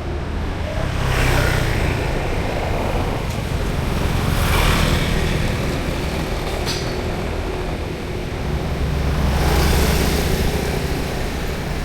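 Street traffic: vehicles pass one after another, three passes swelling and fading over a steady low engine rumble. A short sharp click comes about two-thirds of the way through.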